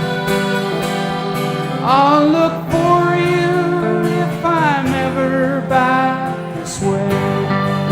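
Live country-folk band performance: steady strummed guitar backing, with a sustained, wavering melody line sliding in from about two seconds in and fading out near the end.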